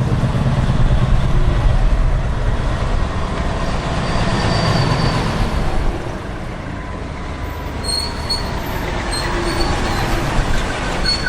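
Heavy vehicle running with a deep low rumble that drops off about six seconds in. Brief high-pitched squeals come and go in the last few seconds.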